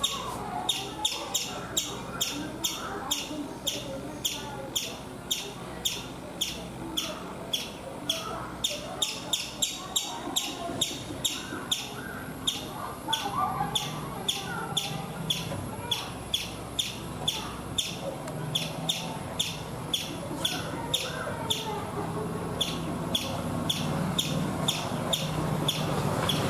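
Indian palm squirrel (the 'chipmunk' of India) giving its sharp, high chip call over and over, about two calls a second in a steady unbroken rhythm.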